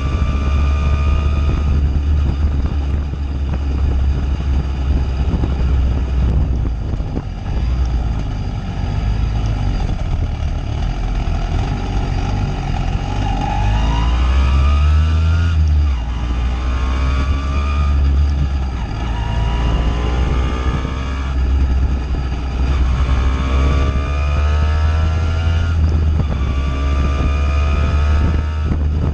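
Simson two-stroke moped with a JW premium exhaust being ridden: the engine revs climb again and again through the gears, each run rising in pitch and dropping back at the shift, over a heavy wind rumble on the microphone.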